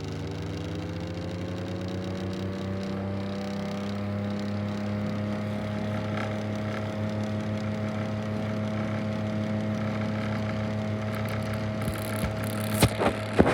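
1964 Pifco Spinair desk fan's motor running with a steady hum and whir, its pitch rising over the first few seconds and then settling at a steady speed. A knocking and grinding noise comes from the motor, cause unknown; the owner means to check its bearings. A few loud sharp knocks come near the end.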